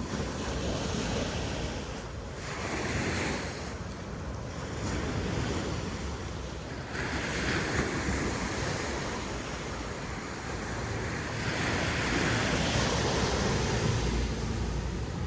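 Ocean waves breaking and washing up a sandy beach, the surf swelling and easing in several surges, with a low rumble of wind on the microphone near the end.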